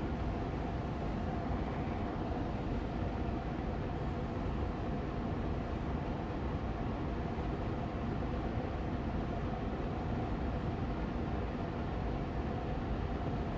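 Austin Air Allergy Machine air purifier fan running steadily on medium speed: an even rush of air and hum with a faint steady tone, unchanging throughout.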